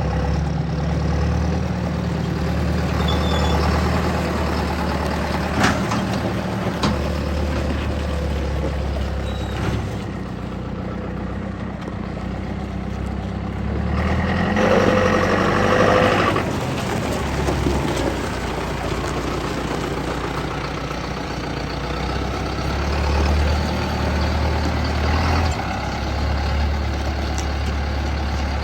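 John Deere 6430 tractor's diesel engine running steadily. Midway there is a louder rushing stretch of about two seconds, and two sharp clicks come a second apart early on.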